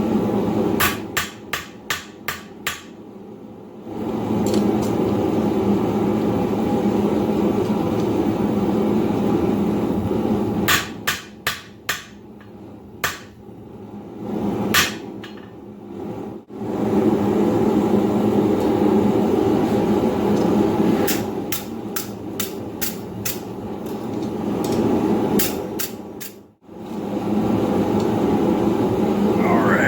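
Blacksmith's hand hammer striking hot steel bar stock on an anvil in three bursts of quick blows: near the start, around the middle and in the last third. Between the bursts runs a long, loud, steady rushing noise.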